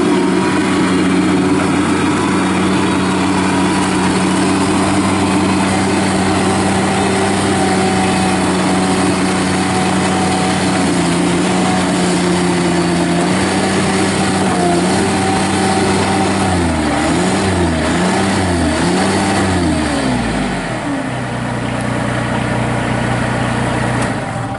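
Kubota diesel engine of a Bobcat MT52 mini track loader running at high speed; near the end its speed rises and falls four times, then it settles to a lower, steady idle.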